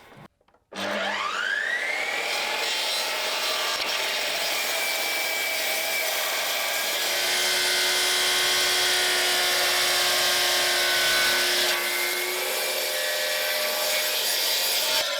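Electric power saw spinning up with a rising whine, then cutting steadily through a thick laminated oak block.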